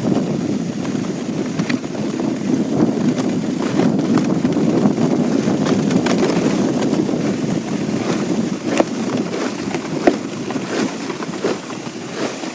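A sled sliding fast down a snowy hill: a steady rushing scrape over the snow with wind on the microphone, dotted with small clicks and bumps.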